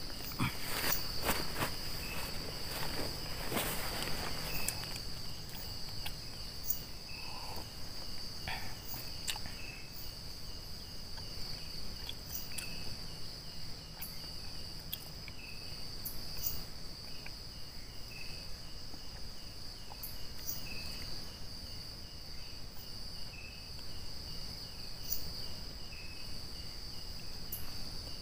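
Night insect chorus: a steady high-pitched trill of crickets, with another insect chirping at a lower pitch about once a second. A few rustles and clicks close by in the first five seconds, and scattered sharp clicks later.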